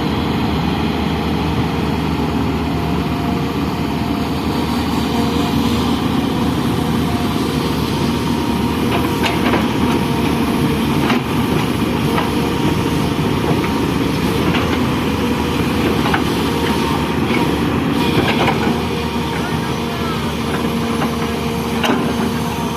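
Heavy diesel engine of an excavator loading soil, running steadily, with a few short sharp knocks now and then.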